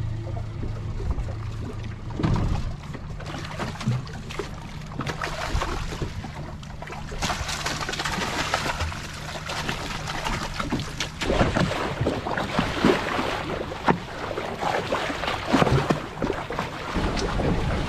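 Boat motor running at low trolling speed with water rushing and splashing against the hull. The motor's steady low hum drops away about 11 seconds in, leaving the splashing water.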